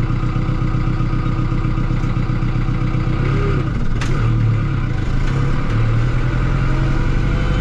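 Tractor engine running steadily as it drives along, with a single sharp click about four seconds in.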